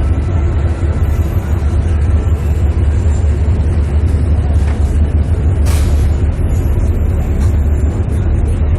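Steady, loud low rumble of idling car engines, with a brief sharp noise about six seconds in.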